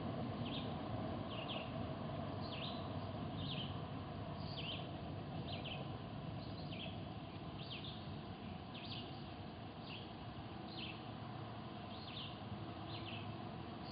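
A bird calling over and over: short falling chirps, singly or in pairs, about once a second, over a steady low background hum.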